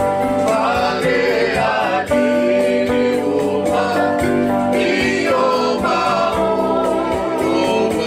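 A group of voices singing a Samoan song together in harmony, with instrumental accompaniment.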